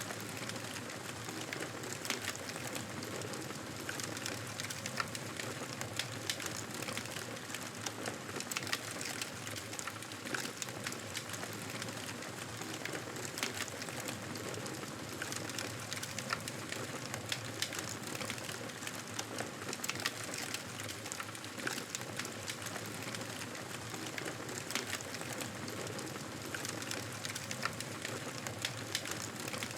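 Fireplace wood fire crackling: a steady hiss with frequent small sharp pops and snaps.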